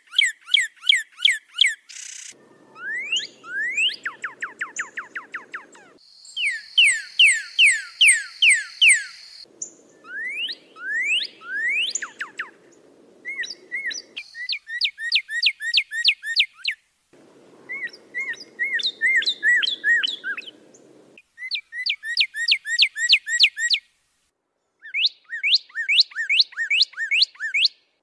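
A songbird singing rapid series of sharply slurred whistles, some sweeping up and some sweeping down, each note repeated several times in quick succession. The phrases come in blocks of a few seconds that start and stop abruptly, with a faint background hiss under some of them.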